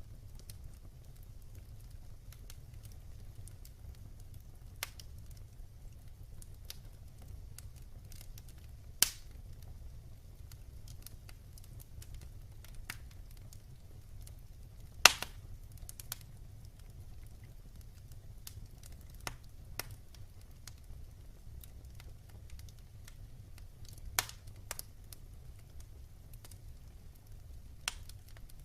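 Wood fire burning in a fireplace, crackling with irregular sharp pops over a steady low rumble of the flames; two pops, about nine and fifteen seconds in, stand out as the loudest.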